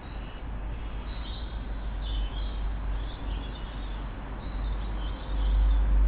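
Garden birds giving short, faint chirps every second or so over a steady low rumble. The rumble grows louder about five seconds in.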